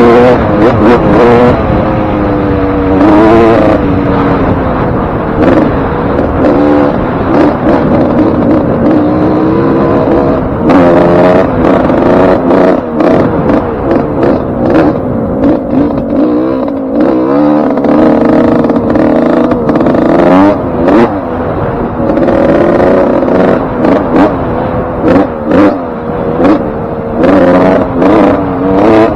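Suzuki RM125 two-stroke motocross engine being ridden hard, its pitch repeatedly rising and falling as the throttle is opened and chopped through the gears. The top end is freshly rebuilt with a new piston ring and wrist pin.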